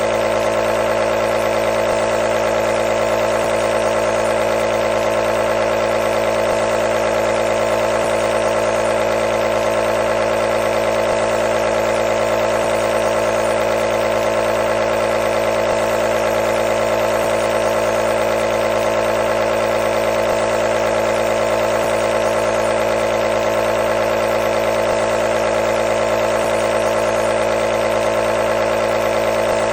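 Compressor nebulizer running continuously: a loud, steady mechanical hum and buzz from its small motor-driven air compressor, with no change in pitch or level.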